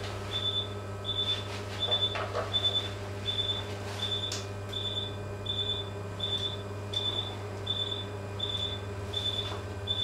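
Surgical patient monitor beeping at an even pace, just under two short high beeps a second, in time with the dog's pulse, over a steady hum of operating-room equipment.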